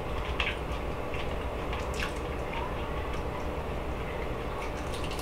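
A person chewing a crispy air-fried chicken wing close to the microphone: scattered wet mouth smacks and small crunches over a steady low background hum.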